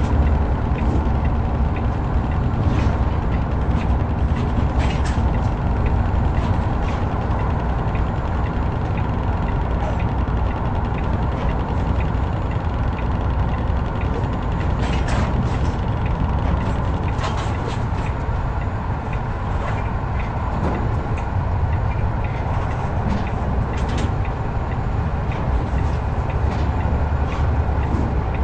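Heavy truck driving: steady diesel engine and road noise, with occasional sharp clicks.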